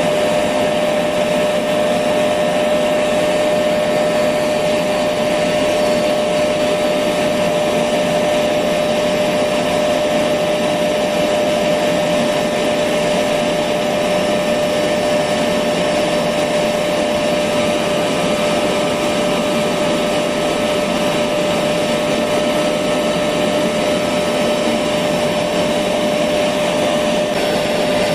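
Electric vacuum cleaner running steadily, a constant whoosh of motor noise with a steady whine.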